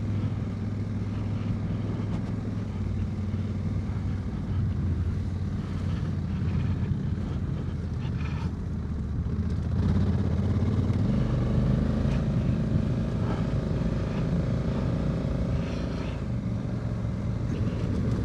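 Honda Africa Twin DCT's parallel-twin engine running steadily under way. About ten seconds in, the engine note changes and grows louder.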